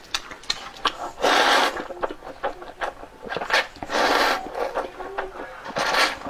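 Noodles slurped up in three loud sucking pulls of about half a second each, with small wet clicks of chewing and chopsticks in between.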